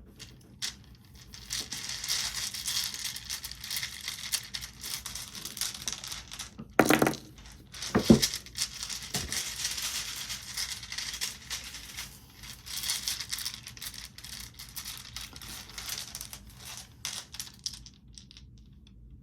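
A deck of reading cards being shuffled by hand: a continuous crisp papery rustle of many small flicks, with a couple of heavier knocks around the middle. It stops shortly before the end.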